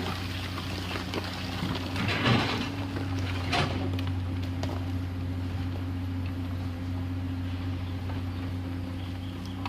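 Komatsu PC210LC excavator's diesel engine running steadily, with a couple of brief knocks and clatters in the first few seconds.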